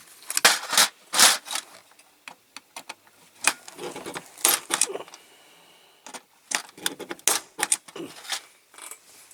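Irregular metallic clicks and scrapes from a hand tool working at a leftover rivet in a diecast zinc model body, trying to free it.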